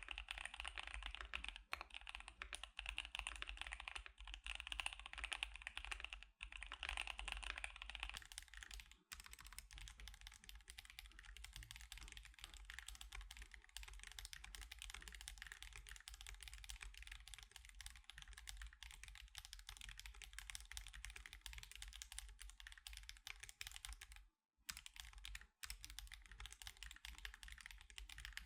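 Continuous fast typing on custom mechanical keyboards. For the first eight seconds or so it is a KBD75 with Gazzew Boba U4T switches and CannonCaps CXA keycaps. After a short break about nine seconds in, the typing goes on with a thinner, less bright clack on an Akko Alice Pro with Akko CS Crystal switches. There are two brief pauses in the typing near the end.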